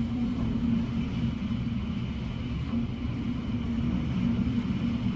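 Hurricane wind blowing against a house, heard from indoors as a steady low rumble that swells and eases.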